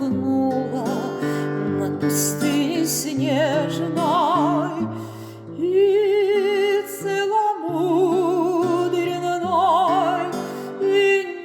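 Woman singing a romance in an operatic style with wide vibrato, over sustained instrumental accompaniment.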